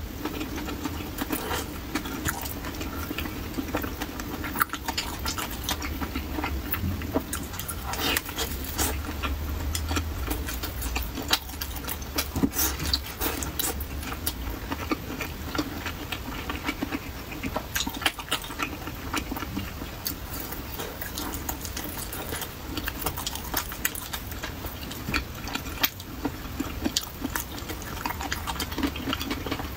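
Close-miked wet chewing and lip smacking of soft, oily pan-fried pumpkin cake, with many irregular sharp clicks and crackles from the mouth throughout.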